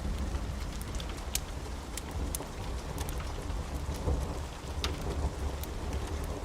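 Steady rain with a continuous low rumble of thunder that swells about four seconds in. Scattered sharp crackles sound over it.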